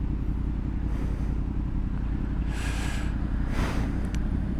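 Honda VFR motorcycle's V4 engine running steadily while riding, a continuous low drone. Two short bursts of hiss come a little past halfway.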